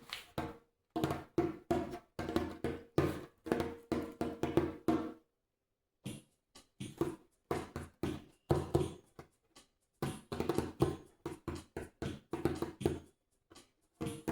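Djembe played with the bare right hand: a loose, improvised run of strokes, several a second, with a pause of about a second a little before the middle.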